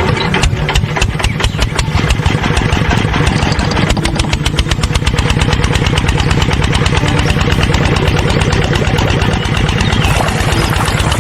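Small single-cylinder engine of a DIY mini diesel water pump starting up and running with a fast, even beat.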